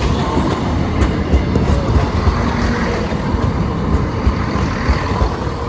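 Diesel passenger train running close by: a loud, steady low engine sound with wheel and rail noise and scattered light knocks.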